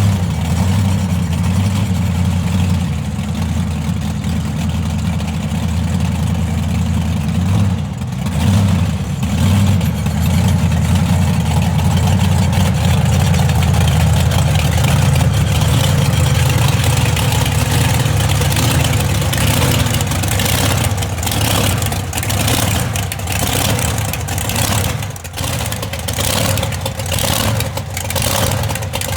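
Monster truck engine running loud and steady. In the last several seconds, a run of sharp knocks and clatter sounds over it.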